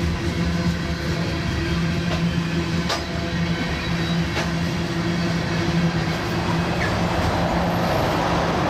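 Coal train's cars rolling past: a steady rumble of steel wheels on rail with a low steady hum, and a sharp click about three seconds in.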